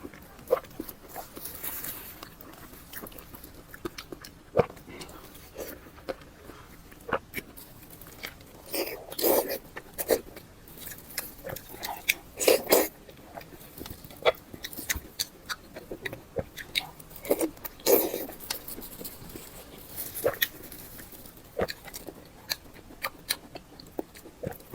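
Close-miked eating sounds: irregular wet chewing, biting and lip-smacking, with sharp little clicks and a few louder, longer bursts of mouth noise.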